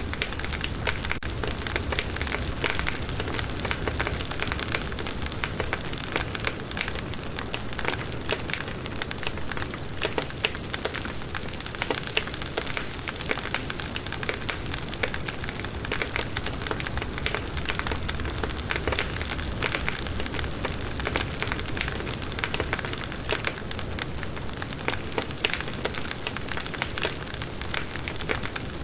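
Campfire of firewood burning, with dense crackling and frequent sharp pops over a low steady rumble of flame.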